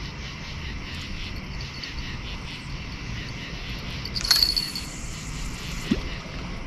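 Crickets and other night insects chirping in a steady pulsing chorus, with a brief sharp sound about four seconds in.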